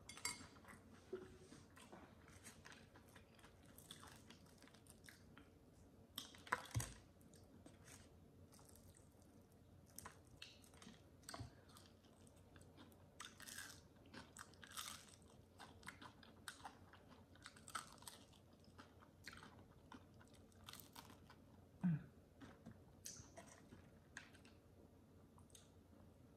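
Close-miked chewing of crispy fried chicken: soft, scattered crunches and wet mouth sounds, with a louder one about seven seconds in.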